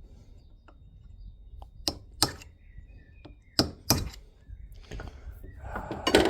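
Sharp knocks, four strikes in two pairs, of a hammer driving a chisel or screwdriver into an old tractor bush to split and dig it out.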